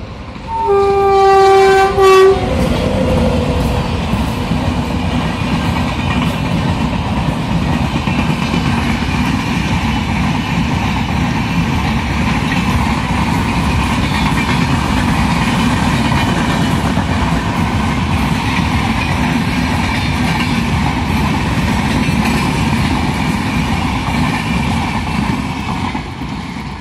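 Indian Railways express train horn giving one blast of under two seconds, with a brief break near its end, starting about half a second in. Then the coaches run past at speed with a steady rumble and the clatter of wheels on the rails, fading as the last coach goes by near the end.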